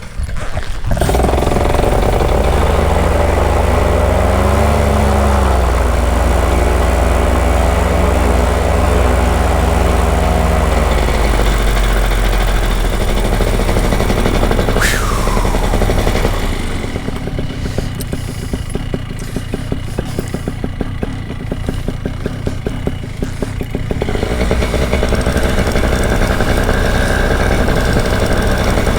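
Paramotor engine running after being started, held at steady higher revs for the first sixteen seconds or so, then dropping to a lower, pulsing idle.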